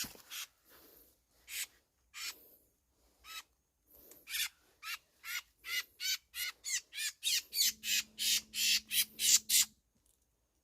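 A bird giving repeated harsh squawks, spaced out at first, then coming about three a second and growing louder before stopping abruptly near the end.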